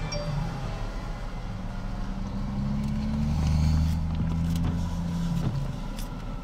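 Car engine and road noise from a vehicle on the move, a steady low drone whose pitch rises a little around the middle, swells briefly, then eases back.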